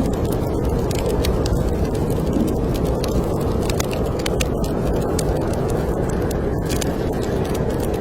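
A steady low rush of snowstorm wind, with the irregular crackle and pops of a wood fire burning in a fireplace.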